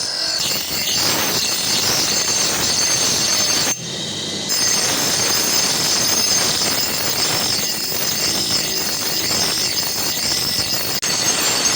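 Power grinder working steel: a loud, steady, high screeching hiss of an abrasive wheel on metal, easing off briefly about four seconds in and then carrying on.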